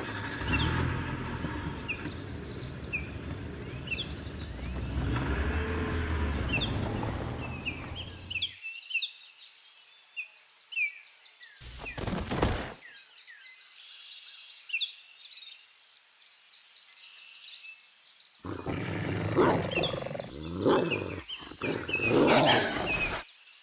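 Birds chirping throughout, with long stretches of loud animal roaring at the start and again near the end, from a wolf closing in, and one sharp noise about halfway through.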